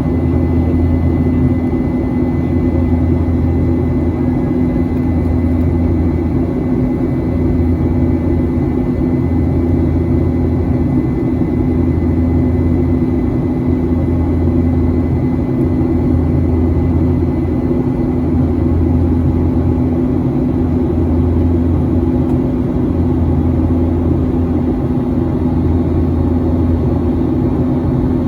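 Steady cabin drone of a Boeing 737-800 in flight: a constant low rumble from the CFM56-7B engines and airflow, with a faint steady whine above it, heard from inside the passenger cabin.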